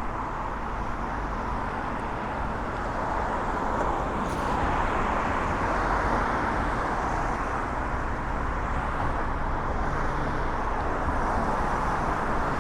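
Steady road traffic on a busy city street: the hiss of cars and tyres going by, swelling a little as vehicles pass.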